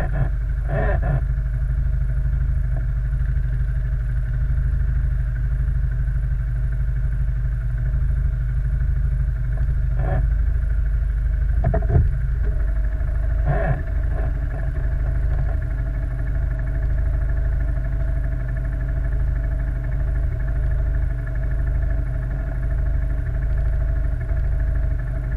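Quad bike (ATV) engine running with a steady low drone. A few short knocks cut through it, the loudest about twelve seconds in.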